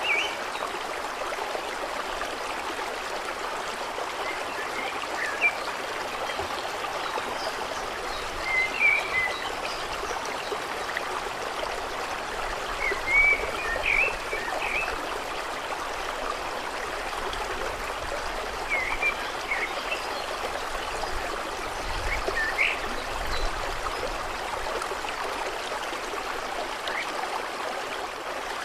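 Water running and trickling steadily, like a small stream or shallow water over stones, with short high chirps from small animals heard every few seconds.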